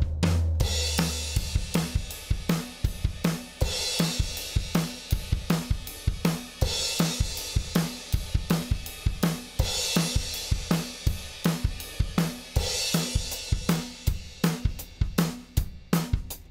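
Recorded drum kit playing a steady groove of kick, snare and hi-hat, with a cymbal crash about every three seconds. A deep low note fades out about a second in.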